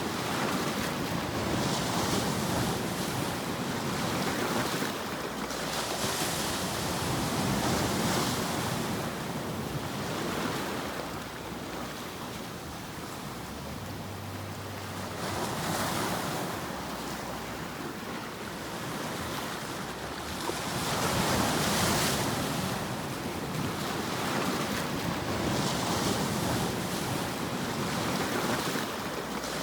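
Ocean surf used as a sleep sound: a steady rush of breaking waves that swells and ebbs every few seconds.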